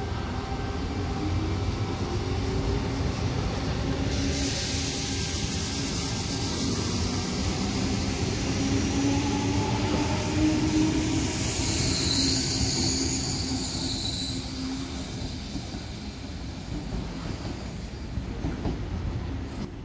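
A double-deck electric suburban train running past on the track, with a low rumble and a slowly rising motor whine. From about four seconds in a loud high hiss of wheels on rail joins it, with a squeal around the middle, before it all fades as the train moves off.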